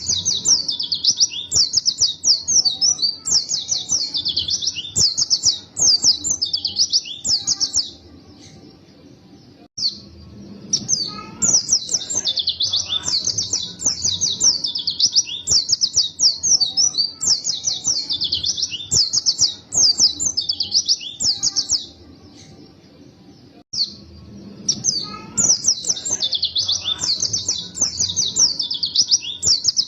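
White-eye (pleci) singing a fast, high, twittering song in long unbroken phrases. It breaks off twice for about two seconds before starting again.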